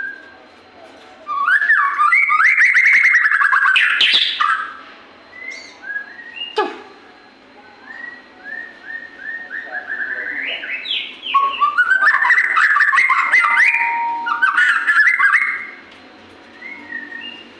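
White-rumped shama (murai batu) singing loudly in full song: two long bouts of fast, varied rising notes and trills, with softer repeated phrases between them. One sharp click about six and a half seconds in.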